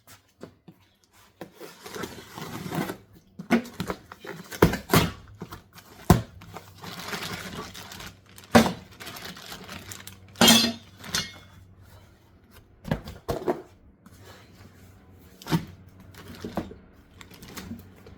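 Boxes of truck step side-rail parts being opened and unpacked: cardboard and packing rustling, with irregular clinks and knocks of metal brackets and hardware being handled.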